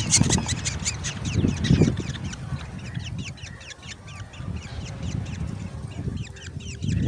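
Black drongo nestlings begging, a rapid series of short high calls, several a second, with a low rumble underneath.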